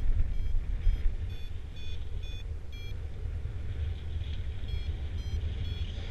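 Flight variometer beeping in short pitched beeps, about two a second, with the pitch shifting from beep to beep: the audio vario signalling climb in a thermal. Wind rushes steadily on the microphone underneath.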